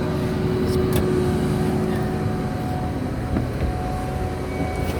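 2008 Ford F-550's 6.4-litre Power Stroke V8 diesel running at a raised idle of about 1200 rpm with the PTO hydraulic pump engaged: a steady hum with a steady whine. The whine's pitch steps up partway through as the hydraulic load shifts.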